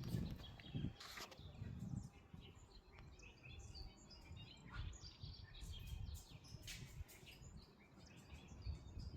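Faint bird chirps over a low, uneven rumble.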